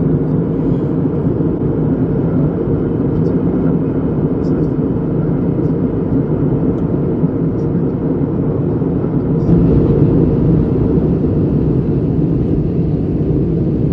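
Steady cabin noise inside an Airbus A321 in flight on approach: a low rumble of engines and airflow. The hiss grows fuller about nine and a half seconds in.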